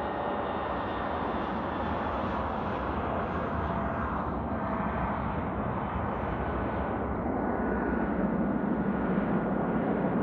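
Airliner taking off, its engines at takeoff power with a steady engine noise and some high whine lines. The sound grows louder and deeper near the end as the aircraft comes closer.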